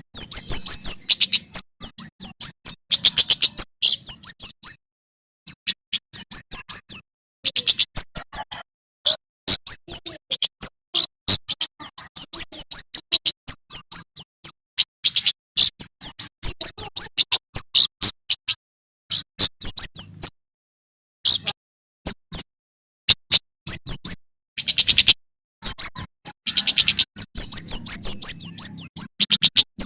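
Male prenjak keres (kemade jawa) singing: rapid runs of sharp, high chirps, many a second, in bursts broken by short pauses.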